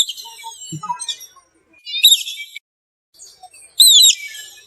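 Otter chirping: three sharp, high-pitched squeaks, each rising and then falling, about two seconds apart, with fainter squeaks between them.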